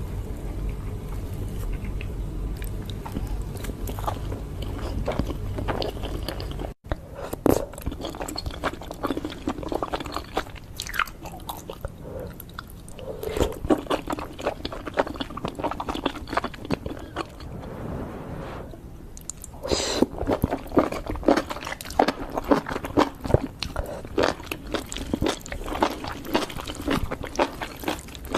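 Close-up eating sounds: chewing and biting with crunching, made up of many irregular short clicks. The sound breaks off for an instant about seven seconds in, and the clicks come thicker and sharper over the last third.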